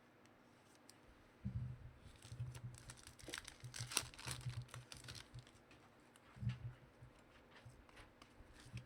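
Crinkling and rustling of trading-card packaging as cards are unwrapped and handled, with scattered sharp crackles and soft knocks, starting about a second and a half in and easing off after about five seconds, with one more short burst near the end.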